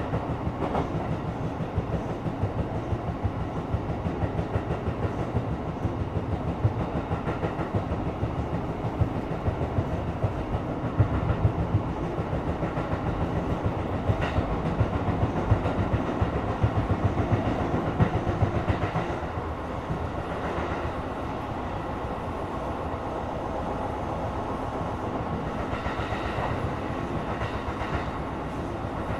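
Running sound inside the passenger car of a Tokyo Metro 17000 series electric train between stations: a steady rumble of wheels on rail with many small knocks, easing a little about twenty seconds in.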